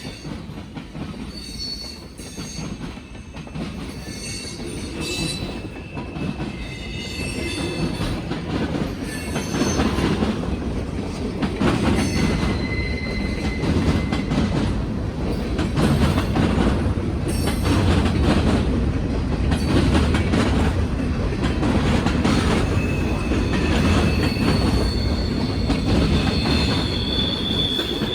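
Norfolk Southern freight train rolling past. The wheels clack over the rails, and high squeals come and go. It grows louder over the first ten seconds or so, then stays loud.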